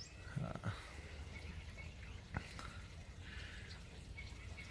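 Faint outdoor background with a few brief, distant bird chirps and a single sharp click about two and a half seconds in.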